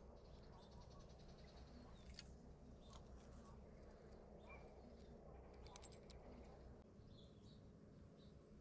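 Quiet creekside ambience with faint, scattered bird chirps and a few light clicks over a low steady hum.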